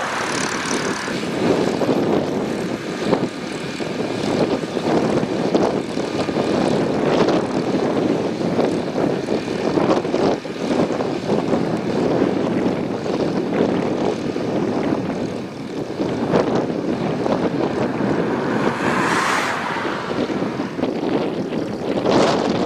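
Volvo BM 350 Boxer tractor's diesel engine running steadily at work, pulling a crop sprayer.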